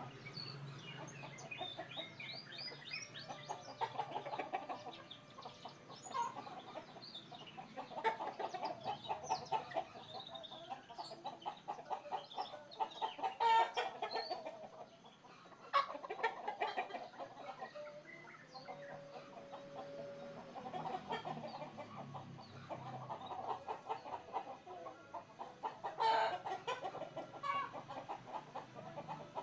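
Chickens clucking in a rapid, repeated chatter, with small birds chirping higher up.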